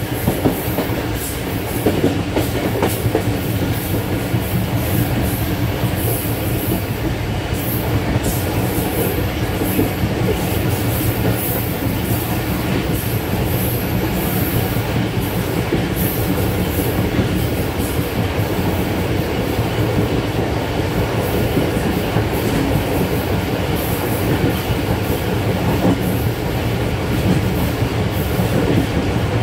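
A train running along the track: a steady, loud running noise, with frequent short clicks and knocks from the wheels on the rails.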